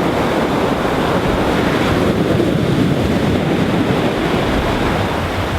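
Ocean waves breaking and rushing up onto a sandy beach, a loud, steady surf noise described as powerful as it comes onto the sand, with wind buffeting the microphone.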